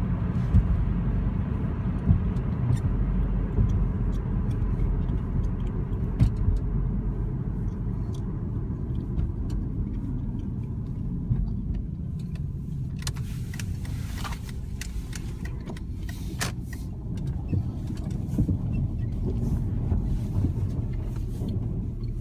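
2003 Dodge Neon SX's 2.0-litre four-cylinder engine running with a steady low rumble. A faint, thin, steady whine sits above it in the first half. Several sharp clicks come about two-thirds of the way through.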